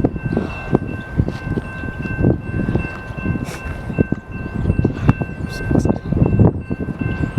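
BNSF train rolling past, its wheels clattering and knocking irregularly over the rails, with a steady high-pitched squeal held throughout.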